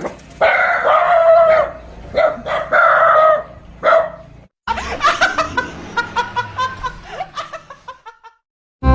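Animal calls: two long, loud pitched calls in the first half and a short one after them. After an abrupt cut comes a busier run of short calls mixed with clicks, which stops suddenly near the end.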